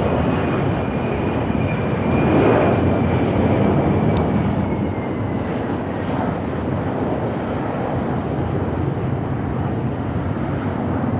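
Jet aircraft engine noise: a steady, loud rush, loudest about two seconds in, with a faint whine that falls slowly in pitch and fades over the first six seconds.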